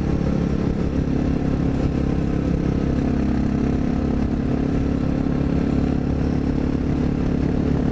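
Honda XR650L's single-cylinder engine running at a steady road speed, heard from the rider's own bike, with a steady low rush of road and wind noise underneath.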